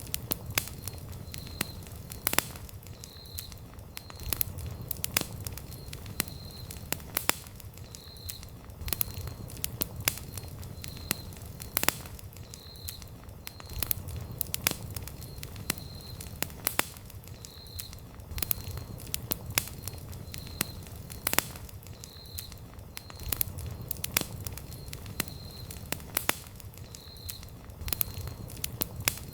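Campfire of burning wood crackling, with frequent sharp, irregular pops over a low steady rush of flame. A faint short high chirp repeats about once a second throughout.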